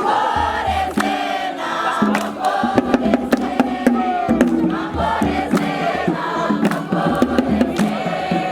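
Group of young voices singing a campfire chant together in chorus, with sharp percussive hits throughout.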